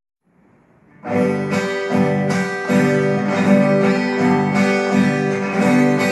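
Instrumental song intro: acoustic guitar strummed in a steady rhythm with a sustained melody line over it, starting about a second in.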